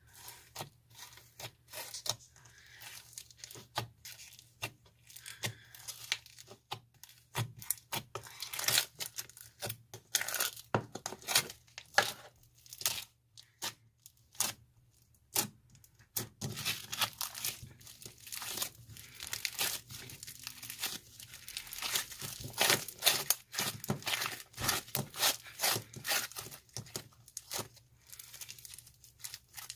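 Slime being squished, stretched and pressed by hand, giving dense, irregular wet crackles and popping clicks, busiest in the middle and latter part.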